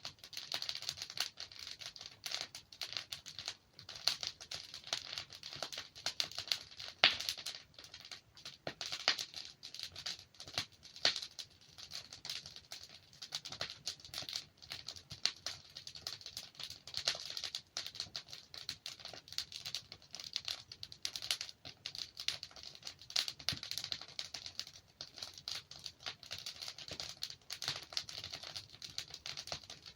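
Wood fire crackling and popping as logs burn: a dense run of small crackles with a few louder pops standing out.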